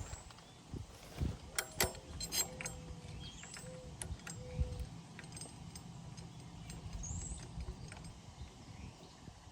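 Metal tools and engine parts clinking and clanking as they are handled, several sharp knocks in the first half, some with a short metallic ring, over a steady low hum.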